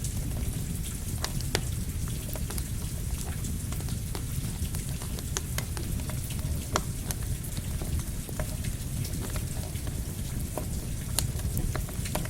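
Steady rain mixed with a crackling campfire: a constant hiss and low rumble with scattered sharp pops and crackles.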